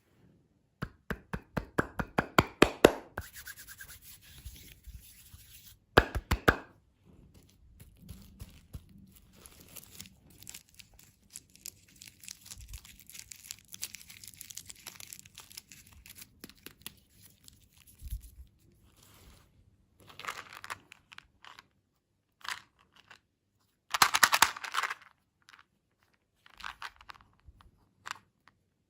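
Close-up crunching and crackling of crunchy candy or dessert being bitten and chewed, in several loud bursts with quieter crackle between.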